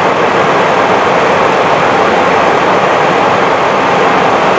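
Steady rushing flight-deck noise inside an Airbus A320 in flight: airflow and ventilation, even and unbroken.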